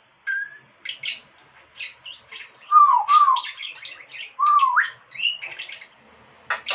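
Pet parrot giving a string of short chirps and squawks, with bending whistles about three seconds in and a rising whistle near five seconds.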